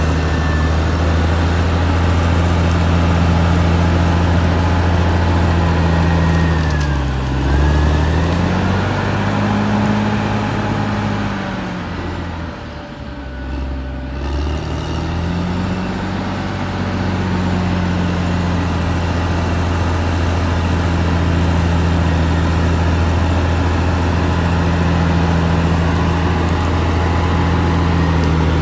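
Caterpillar D6R XL bulldozer's diesel engine running steadily. Its pitch sags briefly about seven seconds in, then again, with the sound dropping in loudness, about halfway through, before picking back up to a steady speed.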